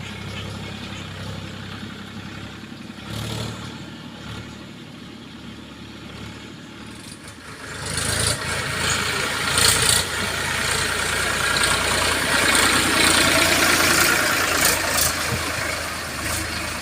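Diesel engine of heavy earth-moving machinery running at a steady idle. About eight seconds in it gets louder, and a harsh noise with several sharp knocks joins it.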